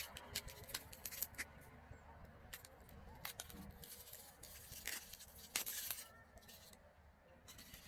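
Natural materials handled close to the microphone for ASMR, giving irregular crisp clicks and crunches that thin out after about six seconds.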